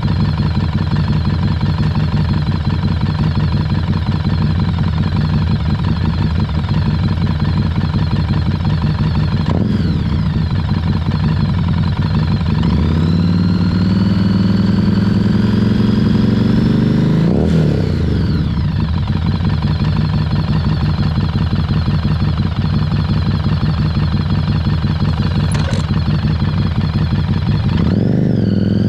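Harley-Davidson Street 500's V-twin running under way. About halfway through it climbs in pitch for about five seconds as it accelerates, then drops sharply and settles to steady cruising. It starts to rise again near the end.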